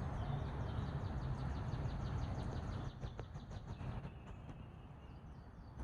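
A small bird singing a fast trill of repeated high downslurred notes, then a few separate high chirps, over a low rumble that drops away about three seconds in.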